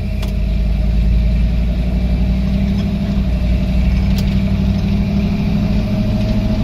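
Old Ford pickup's engine running steadily while driving, heard from inside the cab; the engine is still cold, not yet warmed up. A light click sounds near the start and again about four seconds in.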